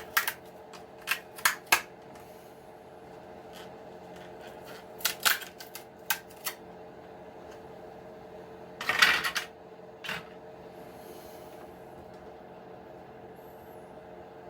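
Sharp clicks and brief clatter of small plastic RC-truck parts being handled and pulled off, in scattered bursts, the loudest a short rattle about nine seconds in. A faint steady hum runs underneath.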